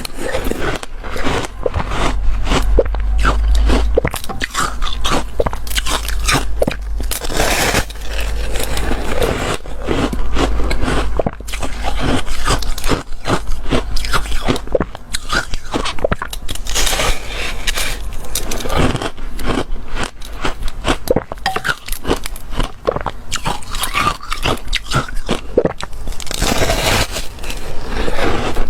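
Close-up crunching and chewing of foam ice: rapid irregular crackly bites with scraping of the ice between them.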